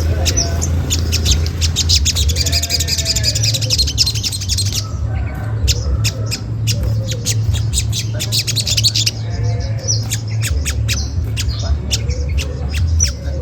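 Olive-backed sunbird giving rapid, sharp 'cret cret' calls in quick runs, over a steady low hum.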